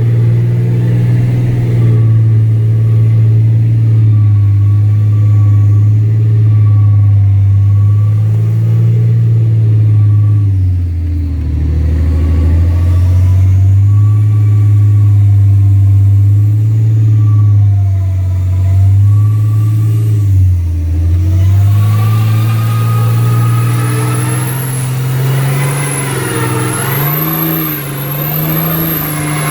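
The engine of a huge mega mud truck running under way, heard from inside the cab. Its pitch wanders and drops briefly twice. Over the last several seconds a high, wavering whistle rises above it.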